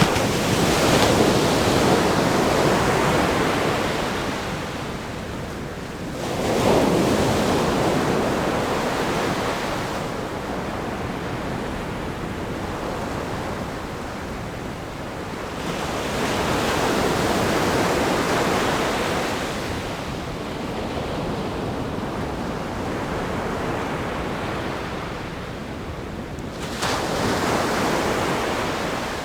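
Ocean waves breaking against a rock groin on a sandy beach, with the surf rushing and hissing between breaks. Four breaks come a few seconds apart, about six to ten seconds apart, each rising quickly and fading slowly. Some wind noise sits on the microphone.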